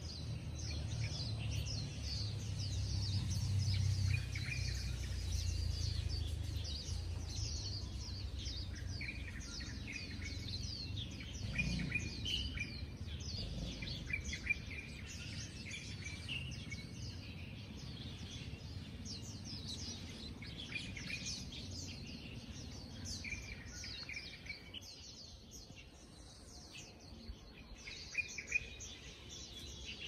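Several songbirds chirping and twittering in rapid, overlapping short calls. A low background rumble under them is strongest in the first half and then fades.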